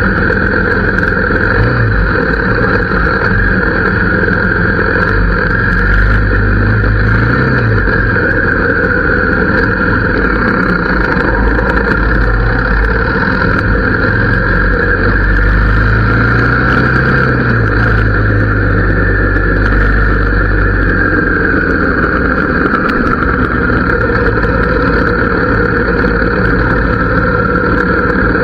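Harley-Davidson V-twin motorcycle engine running through its exhaust, with a steady note whose pitch swells up and back down a few times.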